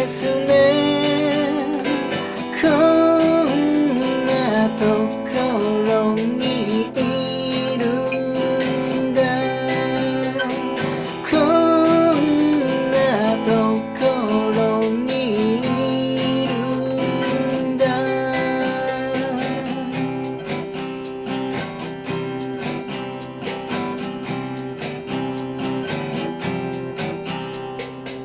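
Strummed acoustic guitar with a voice singing a song over it. For the last third the guitar goes on alone and slowly fades.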